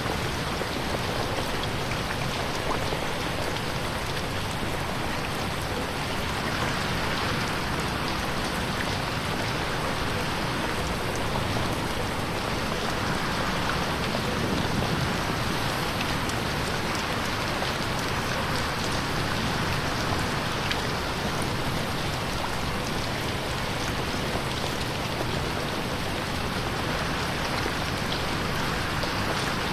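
Steady rain pattering on a window, an even hiss with faint drop ticks and no thunder.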